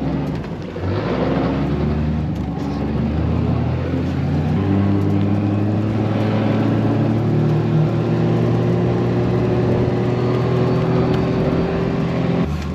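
A vehicle engine running steadily under way over a rushing noise, its pitch creeping slightly higher through the second half. It stops briefly near the end.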